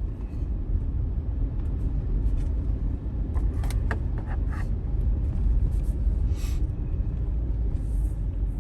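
Low, steady rumble of a car or truck's engine and road noise as it pulls out onto the road, with a few short sharper noises about halfway through.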